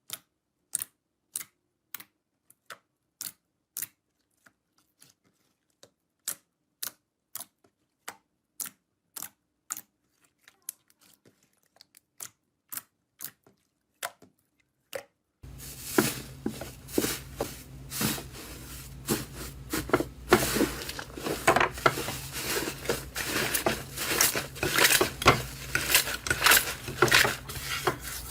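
Close-up crisp snaps of a crunchy material being handled, roughly one or two a second with silence between. About halfway through there is an abrupt cut to dense, continuous crackling and crunching.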